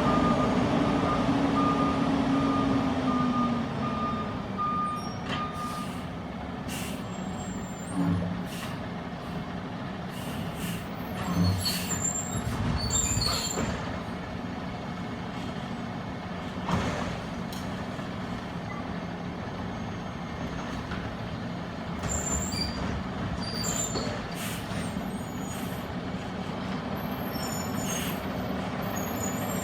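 Peterbilt 320 garbage truck with a Labrie Automizer body running, its reversing alarm beeping steadily for the first several seconds while a whine falls away. After that the engine hums on under scattered sharp clanks, knocks and short hisses.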